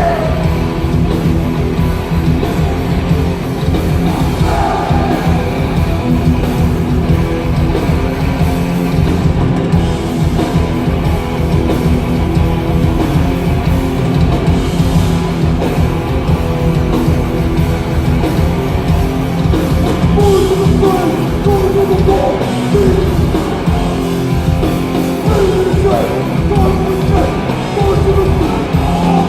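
Live hardcore punk band playing loud, with distorted electric guitars, bass and a pounding drum kit, and vocals over it.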